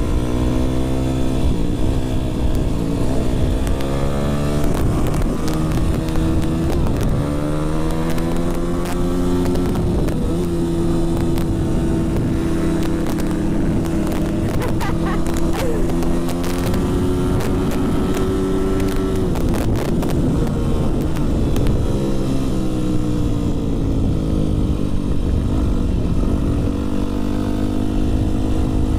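Dirt bike engine being ridden: revving up and shifting through the gears, holding a steady speed in the middle, then easing off about twenty seconds in before accelerating again.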